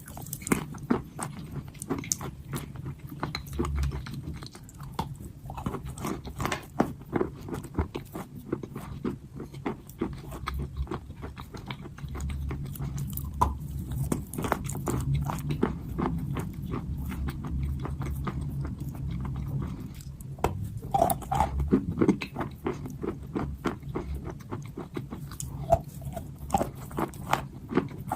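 Crunchy chalk being bitten and chewed close to the microphone: a dense run of sharp crackles and crunches over a low, steady chewing rumble.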